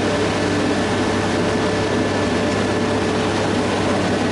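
Heavy construction machinery engine running steadily: a constant low hum with faint steady tones above it.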